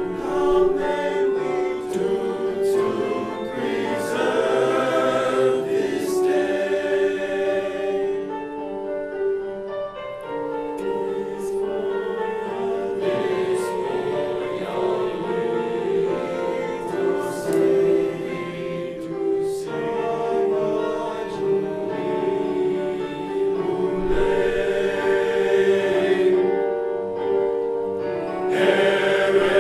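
A choir singing in harmony, holding long chords, with brief breaks between phrases.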